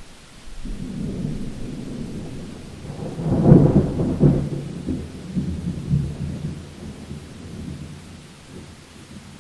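Thunder rolling through a rainstorm over steady rain. A low rumble builds about half a second in, swells to its loudest a few seconds in, then rolls away and fades over the following seconds.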